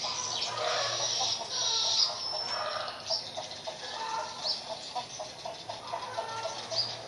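A bird calling in a long run of short, clucking notes, about three a second, over a steady high hiss.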